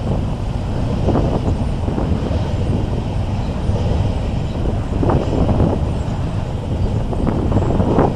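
Train rolling past with a loud, steady rumble and a few sharp clanks of the wheels over the rail joints.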